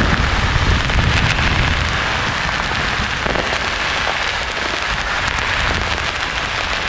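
Steady white-noise hiss with a crackly, rain-like texture, mixed for sleep with thunder. A low thunder rumble dies away over the first couple of seconds, leaving the hiss on its own.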